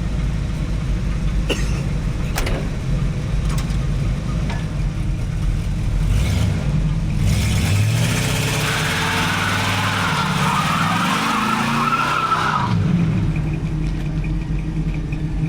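1983 Cutlass Hurst V8 idling, then revving up about six seconds in and spinning its rear tires with a squeal for about five seconds, before dropping back to idle.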